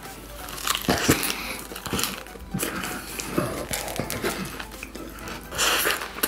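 Close-up chewing of a lettuce wrap filled with chewy gummy jelly candies: irregular crunches of leaf with wet, smacking mouth sounds, loudest about a second in and again near the end.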